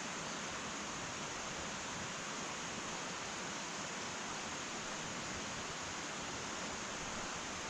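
Wood fire burning in an irori hearth: a steady, even hiss with no crackles or pops.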